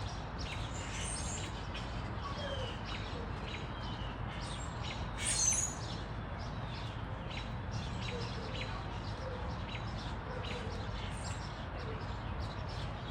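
Songbirds chirping and calling outdoors, many short high chirps scattered throughout, with one louder, higher call about five seconds in, over a steady low background noise.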